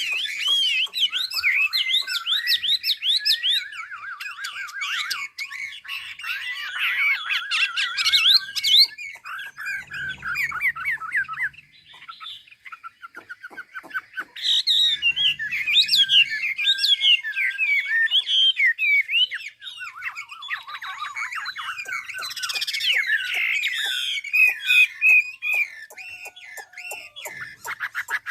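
Chinese hwamei (họa mi) singing long runs of rapid, varied whistled phrases, broken by a few short pauses.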